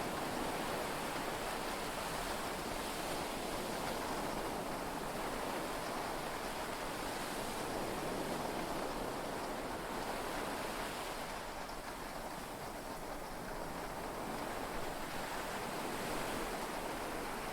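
Steady rush of heavy rain and sea waves heard from inside a yacht cabin, easing slightly for a few seconds about two-thirds of the way through. No thunder clap stands out.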